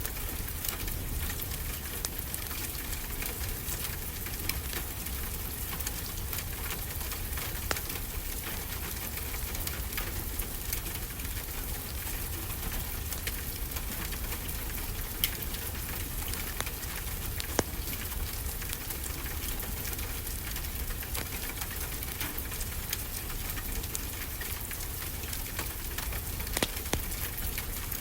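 Wood fire crackling, with scattered sharp pops, over a steady low wash of ocean surf.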